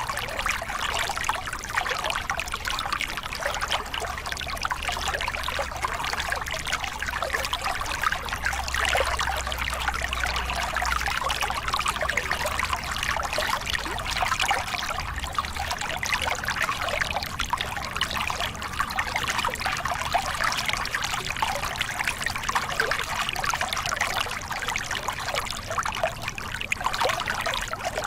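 A small river cascade: water pouring and splashing over rocks in a steady, dense rush.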